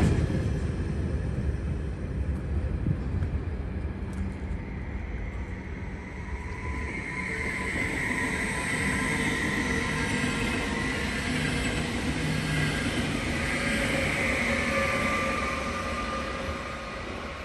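Electric train on the tracks at a station. Its rumble fades over the first few seconds, then a steady electric whine swells in the middle and drops away near the end.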